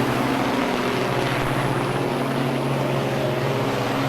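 Semi truck diesel engine running with a steady drone, holding an even pitch.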